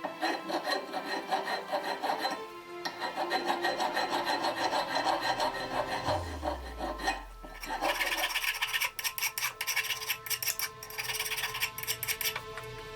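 Rapid back-and-forth rasping strokes of an abrasive hand tool working a part of a rusty clamp being restored. A brief pause comes about six seconds in, and after it the strokes turn higher and hissier.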